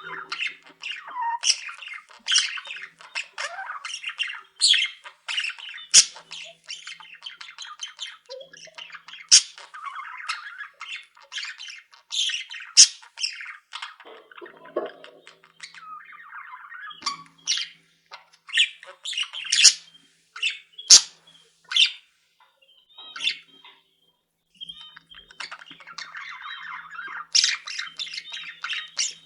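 A flock of pet budgerigars chattering and warbling, with many sharp, high chirps and squawks breaking through. There is a brief lull about three-quarters of the way through.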